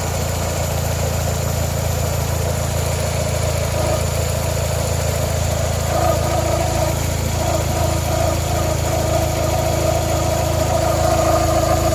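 Toyota Corolla four-cylinder engine idling steadily. About halfway through, a higher whirring tone joins the idle and grows slightly louder; the owner hears it as the water pump running, and it sounds awful to him.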